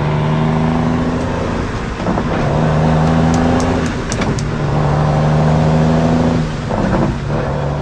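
Ford dump truck's engine running steadily under way, its note dipping briefly about two, four and six and a half seconds in before picking up again.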